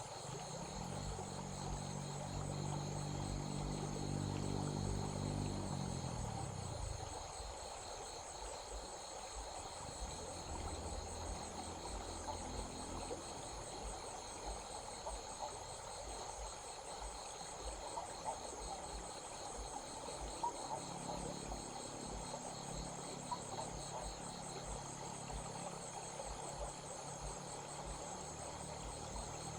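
Insects chirping in a steady fast pulse over the even rush of a flowing stream. A low engine-like hum swells, falls in pitch and fades out about six or seven seconds in, then comes back faintly in the last third.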